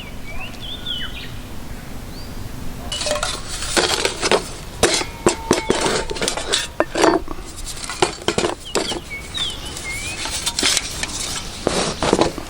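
Metal camp cookware and utensils clinking and clattering as they are handled, starting about three seconds in. Short chirps come through in the first two seconds.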